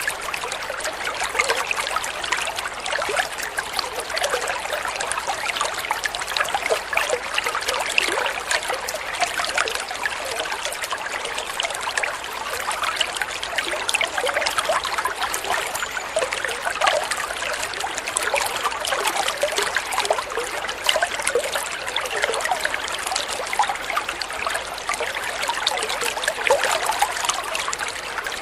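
Water flowing and trickling steadily, with a continuous splashing babble like a small stream or running water over stones.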